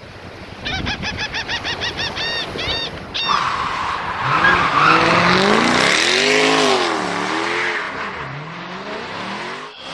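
A quick run of high, repeated chirps for about two and a half seconds, then a vehicle engine running, its pitch rising and falling.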